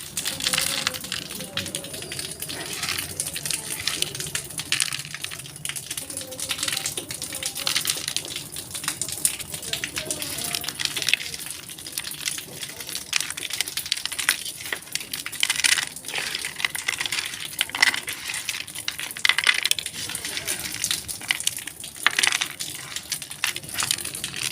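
Slate pencils being bitten and chewed: a dense, continuous run of crisp, brittle crunching clicks.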